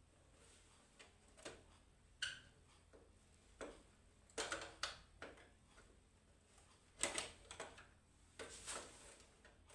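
Faint, irregular clicks and knocks of small hard objects being handled, some coming in quick clusters.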